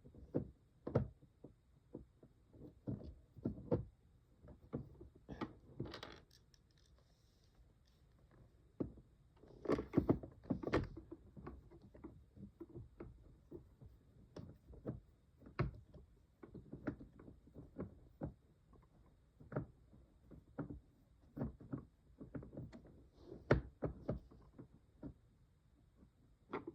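Irregular small clicks and knocks of hard plastic parts being handled while rubber bands are fitted onto the gear wheels of a toy aquarium. They are loudest in clusters about ten seconds in and again near the end.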